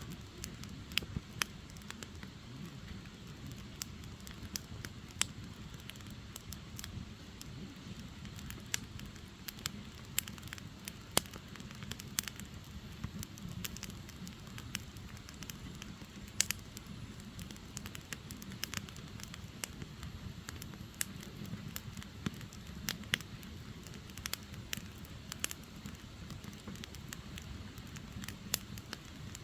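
Firewood burning: a steady low rumble of flames with frequent sharp, irregular crackles and pops from the logs.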